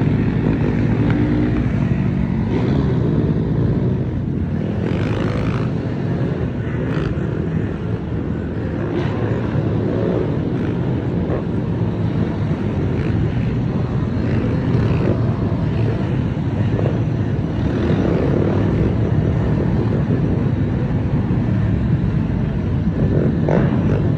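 Mini bike engines running and revving, the pitch rising and falling continuously.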